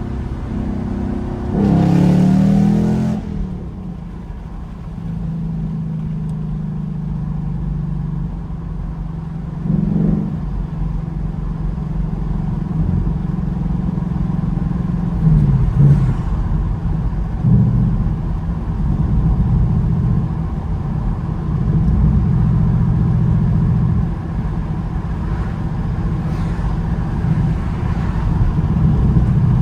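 Ford Mustang GT's 5.0-litre V8 engine and exhaust while driving, with a short rise in engine pitch under throttle about two seconds in, then steady running with a few brief throttle changes.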